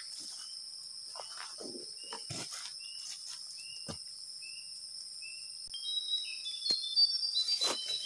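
Wild songbirds singing back and forth: a run of short, evenly spaced whistled notes, about one every half second, then quicker, higher chirps near the end. A steady high insect hum runs underneath, with brief rustles and knocks of footsteps through the undergrowth.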